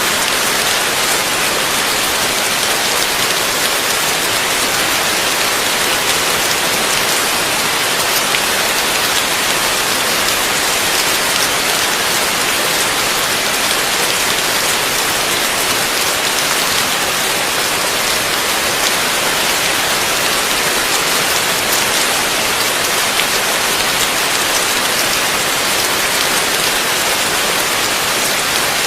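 Heavy rain falling steadily, a dense hiss of drops striking a surface, with individual drop ticks scattered through it and no change in intensity.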